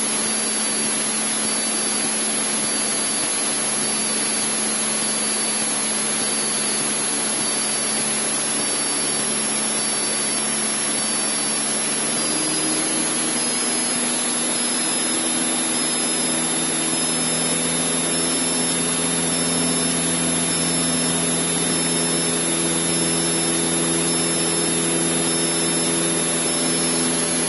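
Cessna 152's four-cylinder Lycoming O-235 engine and propeller droning steadily at cruise power, heard inside the cockpit together with a rush of airflow. About twelve seconds in, the engine's note shifts slightly and grows fuller.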